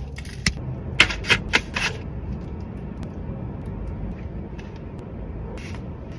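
A handful of short, sharp, crisp clicks and crunches in the first two seconds and one more near the end, over a steady low background noise: the small sounds of a takeout meal being handled and eaten.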